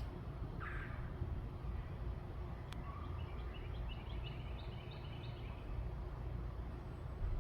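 Backyard birdsong: a single harsh caw of a crow about a second in, then a songbird's quick run of short, high notes a few seconds later, over a steady low rumble.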